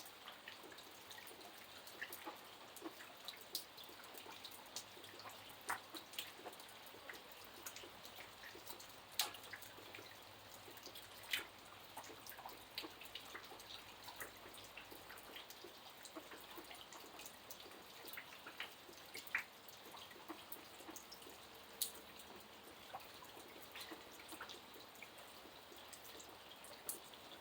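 Rain falling steadily, a faint hiss with many separate drops striking close by at irregular moments, a few of them sharper and louder than the rest.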